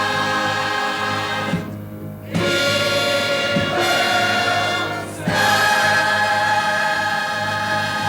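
Gospel choir singing long held chords with instrumental accompaniment. It breaks off briefly twice, about two and five seconds in.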